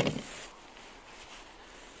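A short, heavy wooden knock at the very start, as a firewood log is dropped onto a loaded sled. Then only faint rustling.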